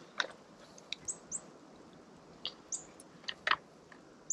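Small birds chirping in short, high, scattered chirps about once a second, with a few sharp clicks in between.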